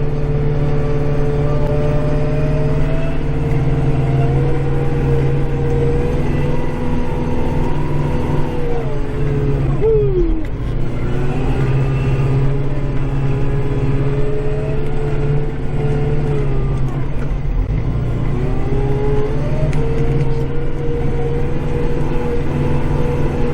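Kubota tractor's diesel engine running steadily under load, heard from inside the cab, as it pushes heavy wet snow with its front blade. A whine above the engine hum sinks in pitch and comes back twice, about midway and again later.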